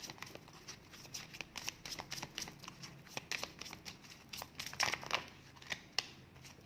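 A deck of divination cards being shuffled and handled: a quick run of small card clicks and flicks, with a longer swishing rustle about five seconds in.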